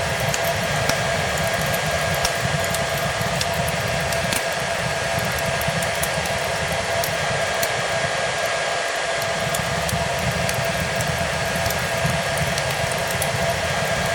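Hair dryer running steadily: an even rush of air with a constant motor whine. A fireplace crackles with scattered sharp pops over it.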